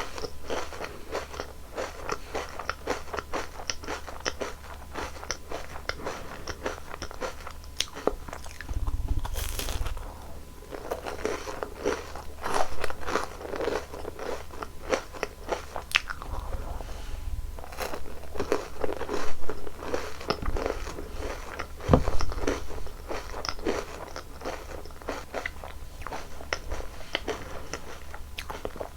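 Close-miked eating sounds: biting and chewing, with dense irregular crunchy clicks and a few louder bites along the way.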